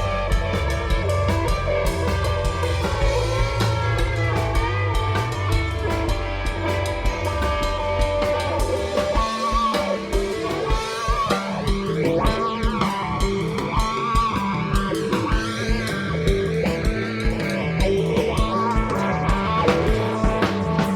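Rock band playing live without vocals: guitar over bass and a drum kit keeping a steady beat. About nine seconds in, the deepest bass notes drop away and the bass line carries on higher.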